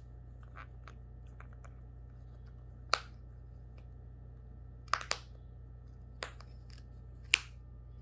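A cockatoo's beak cracking and clicking as it chews: five or so sharp cracks, two of them close together in the middle, among fainter small clicks, over a steady low hum.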